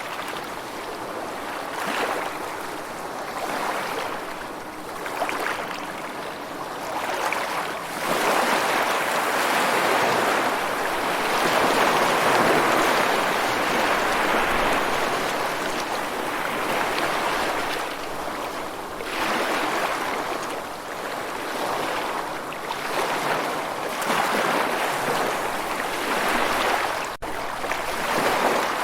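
Rushing water, a steady wash of noise that swells and eases every few seconds, with a momentary dropout near the end.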